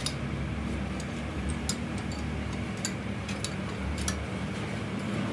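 A machine running with a steady low hum, with irregular sharp ticks or clicks every half second or so.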